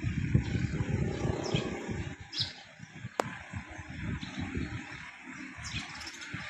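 Outdoor ambience: an uneven low rumble that fades away about two seconds in, over a steady high hiss, with a few short chirps and one sharp click about three seconds in.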